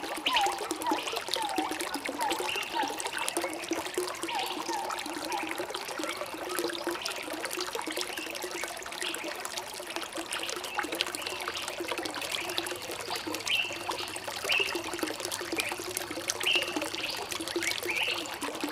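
Water trickling and splashing steadily, with short bird chirps over it, lower ones in the first few seconds and higher calls in the second half.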